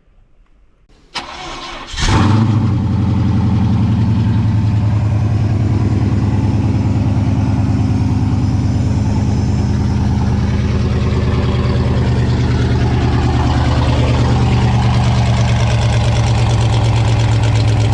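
The comp truck's 5-litre Holden V8 cranks briefly and catches about two seconds in, then idles steadily and loudly.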